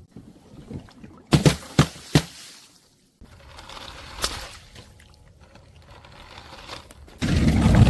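Objects being crushed and broken: three sharp cracks in quick succession, then a quieter stretch with a single click, and near the end a loud, dense crunching starts.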